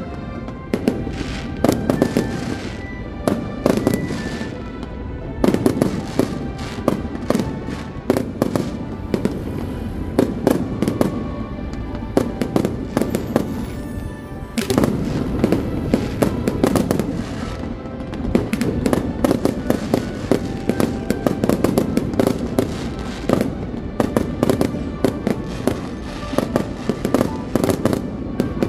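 Fireworks display: a dense run of sharp bangs and crackling bursts, several a second, with music playing underneath.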